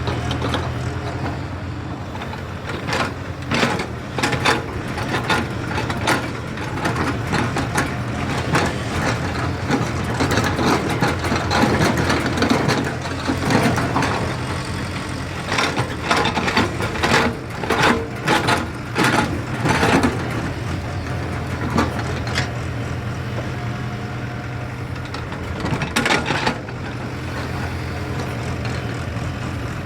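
JCB excavator's diesel engine running steadily, with frequent clanks and rattles of the machine at work, busiest through the middle stretch.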